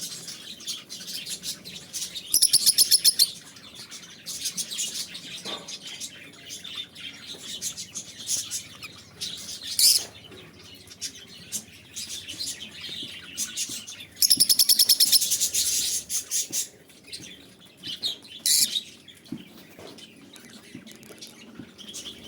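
Love birds chirping: scattered high-pitched calls, with two loud bursts of rapid, shrill chattering, about two seconds in and again around fourteen seconds in.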